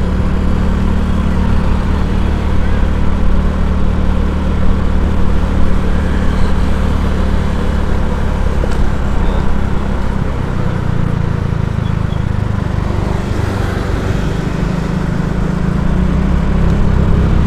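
A vehicle engine runs steadily over road and wind noise in traffic, its low hum changing pitch about ten seconds in.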